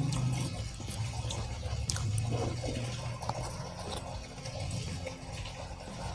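Close-miked chewing of a mouthful of crispy fried meatballs (bakso goreng), with many small, irregular crunching clicks.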